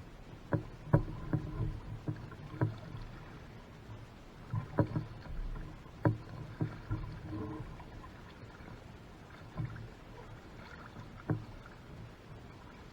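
Small boat being paddled on the water, with sharp hollow knocks against the hull at irregular intervals that come less often near the end.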